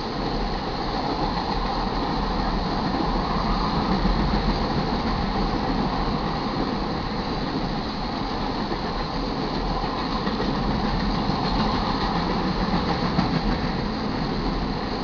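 A long crude oil freight train rolling past steadily, the wheels of its tank cars running over the rails.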